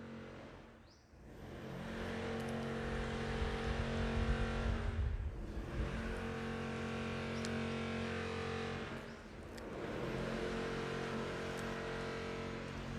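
A motor engine running steadily with a low hum, fading down and back up about every four seconds.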